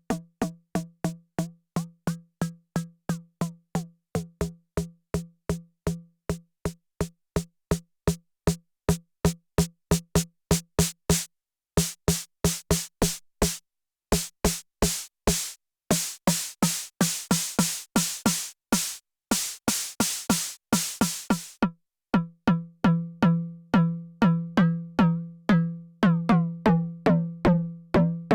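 Elektron Syntakt's analog FM snare drum engine played dry in a fast, even sequenced pattern, about four hits a second, with a low pitched body. About twelve seconds in the hits turn bright and hissy for several seconds, then become pitched and ringing again as the sound is reshaped.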